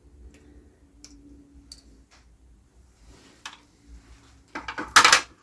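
Small metal espresso-machine parts clicking as they are handled and set down, then a quick run of louder rattling clatter near the end.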